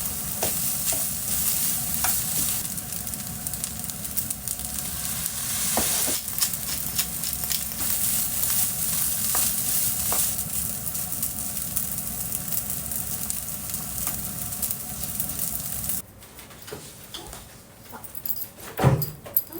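Food sizzling in a hot frying pan, a steady hiss with occasional light clicks. The sizzling cuts off abruptly about three-quarters of the way through, leaving quieter room sound with one loud knock near the end.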